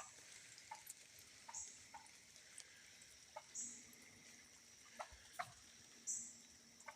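Near silence outdoors, with faint scattered clicks and a short, faint high chirp about every two seconds.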